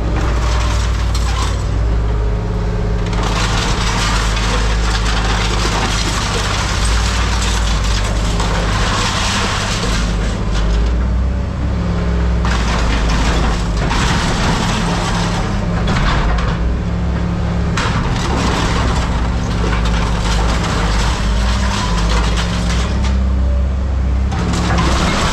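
A machine's engine running steadily, overlaid by repeated stretches of harsh noise lasting a few seconds each as the machine works the scrap.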